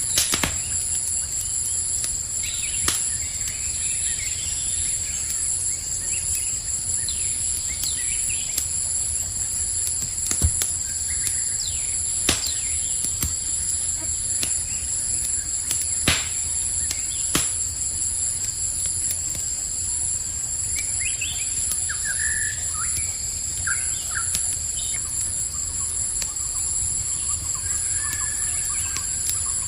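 Campfire crackling with a low steady rumble and scattered sharp pops, over a steady high-pitched chorus of crickets. A few short bird chirps come in about two-thirds of the way through.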